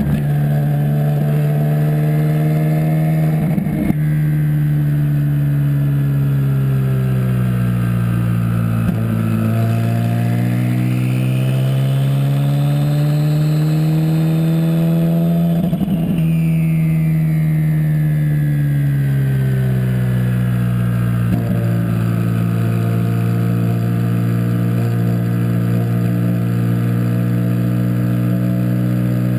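Hennessey HPE700 twin-turbo V8 of a Ferrari 458 Spider running under way, its note climbing and falling twice as the car speeds up and slows, then holding steady near the end. A fainter high whine rises and falls along with it.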